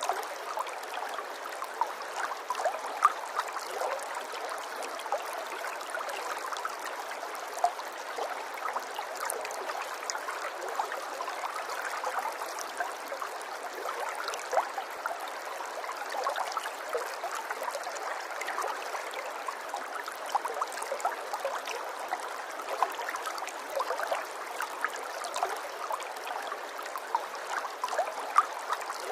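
Water trickling and gurgling steadily in a small stream, with many small splashes and droplet clicks over an even rush.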